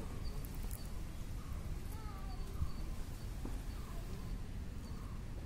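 Small birds calling: a high, short chirp repeated steadily two or three times a second, with a few lower wavering calls in between, over a steady low background rumble.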